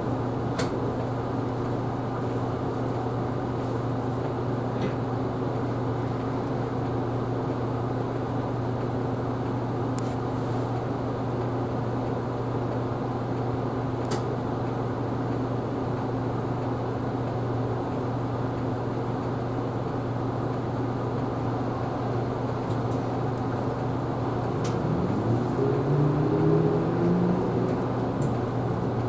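Isuzu Erga Hybrid city bus running, heard from inside the cabin: a steady low drone with a few faint clicks. About 25 seconds in, a whine rises in pitch and the sound gets a little louder as the bus speeds up.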